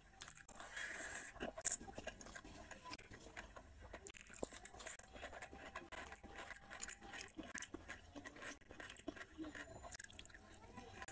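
Close-miked mouth sounds of a person eating rice and curry by hand: steady wet chewing and smacking with many small clicks. There is one sharp, loud click about 1.7 seconds in. Near the end comes a bite into a piece of chicken curry.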